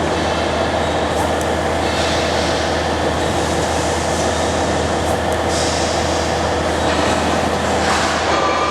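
CO2 laser cutting machine running: a steady, loud mechanical drone with a low hum underneath and swells of hissing that come and go every couple of seconds.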